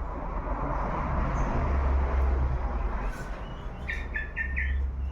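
A small bird calling: a quick run of four short notes near the end, over a steady low rumble and hiss.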